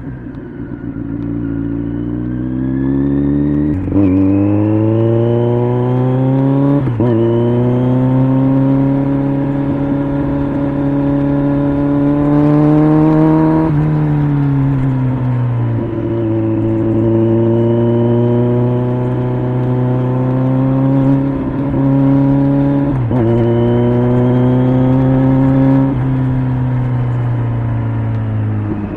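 Kawasaki Z900's inline-four engine through an LCI Parts aftermarket muffler, accelerating hard with rising revs. Sharp drops in pitch about 4 and 7 seconds in mark upshifts; revs fall off around the middle as the throttle eases, then it pulls again with another shift near the end.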